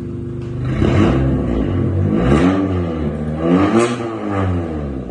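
Turbocharged Honda Civic engine through a full aftermarket exhaust with a valvetronic muffler, idling briefly and then revved up and let fall back several times in quick blips.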